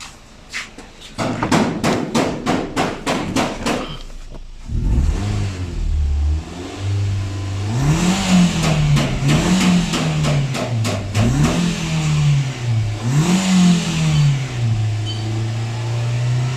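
A rapid run of ticks, about five a second, then a Nissan Sunny's engine running and revved in four quick blips, each rising and dropping back, before settling at a steady fast idle. It picks up the revs cleanly, its intake and catalytic system just treated with a cleaning drip.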